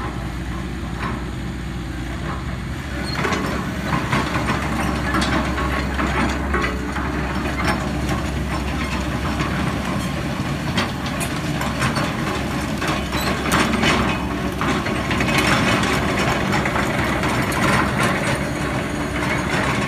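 Hitachi ZX1350US-3 excavator running, its diesel engine a steady low hum. From about three seconds in, frequent metallic knocks and rattles from the machine join in and the sound gets a little louder.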